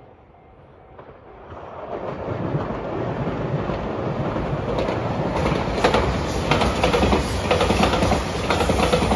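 JR Shikoku 8600 series electric limited express train approaching and passing close by. Its running noise builds over the first couple of seconds, then the wheels clack over the rail joints repeatedly as the cars go past.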